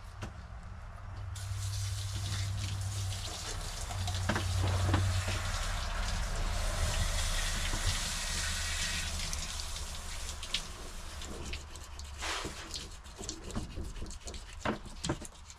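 Water running from a tap or hose, a steady gush that starts about a second in and eases off after about twelve seconds, followed by a few light knocks and clicks.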